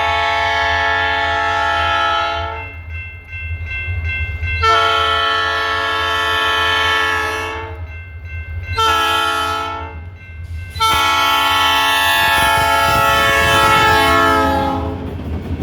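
Diesel freight locomotive's air horn sounding the grade-crossing signal: the end of one long blast, then a long blast, a short blast and a final long blast, over the low rumble of the engine. The horn's pitch drops near the end as the locomotive passes.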